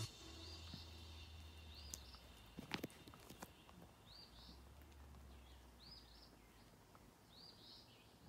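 Near silence with a bird chirping faintly: short rising-and-falling chirps repeated every second or two. A few soft knocks and rustles come about three seconds in.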